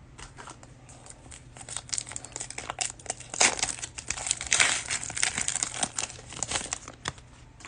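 Plastic cellophane wrapper of a trading-card cello pack crinkling and crackling in the hands as it is torn open, in irregular bursts that are loudest around the middle and die away near the end.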